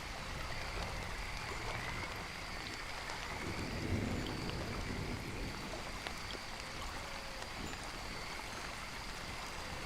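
Steady rain falling, an even hiss of drops, with a slight low swell about four seconds in.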